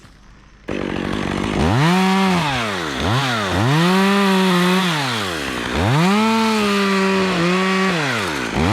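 Two-stroke chainsaw that comes in suddenly under a second in, idles briefly, then is revved to full throttle and held there about four times, dropping back between pulls, as when cutting limbs.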